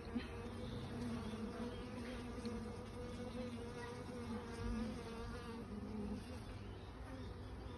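Many honeybees buzzing around an opened hive, a steady hum that wavers slightly in pitch.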